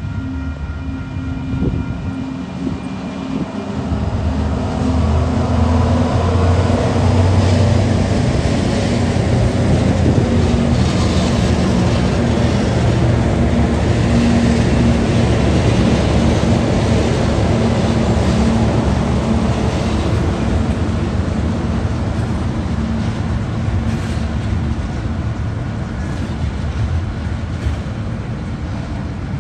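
TasRail TR-class diesel-electric locomotives pass at low speed, their engines giving a steady low hum that grows louder about four seconds in as they draw level. Container flat wagons then roll by with a steady rumble of wheels on rail and a few sharp clicks near the end.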